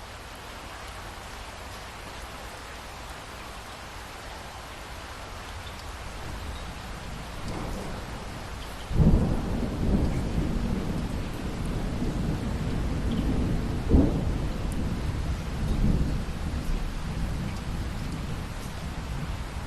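Steady rain with a thunderstorm: about nine seconds in a loud thunderclap breaks out of a building rumble, followed by more rolling thunder with further peaks, the last strong one about fourteen seconds in.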